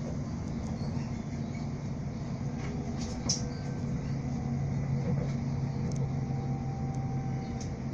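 Steady low rumble and hum of a moving train heard from inside the carriage, with a few light clicks, the sharpest about three seconds in.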